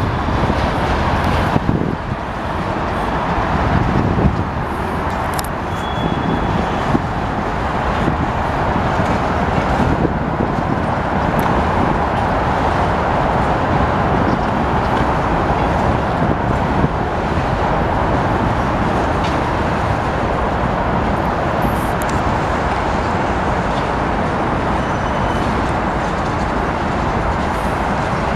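Union Pacific freight train's cars rolling past on the rails: a steady rumble of steel wheels, with a few sharp clicks.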